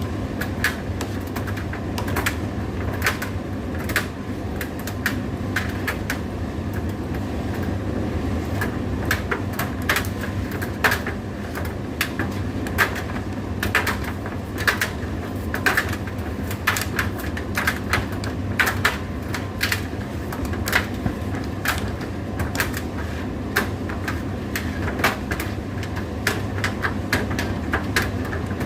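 Indesit IDC8T3 condenser tumble dryer running: a steady motor hum, with frequent irregular clicks and knocks from the load tumbling in the turning drum.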